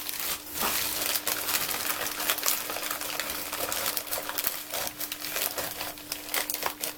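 Newspaper being crumpled and rustled by hand in quick irregular crackles while the firebox is packed. A steady faint hum runs underneath.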